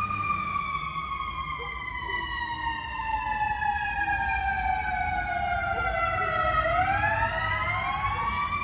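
Fire engine siren sounding while responding, its pitch falling slowly for about six seconds, then winding back up near the end, over a low engine rumble.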